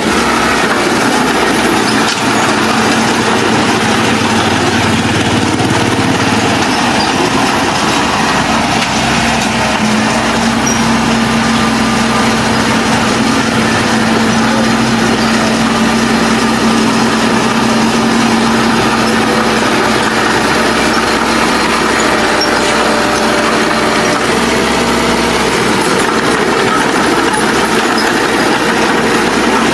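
Heavy earthmoving machine engine running steadily under work, a dense, constant drone with a held hum that shifts pitch slightly partway through.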